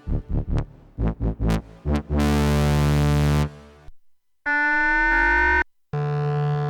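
Jeannie polyphonic synthesizer playing a run of separate patches. First come a few short plucked notes whose brightness falls away quickly, then a held chord, then about two-thirds in a chord with wavering, gliding upper tones, and another chord starting near the end, each cutting off abruptly.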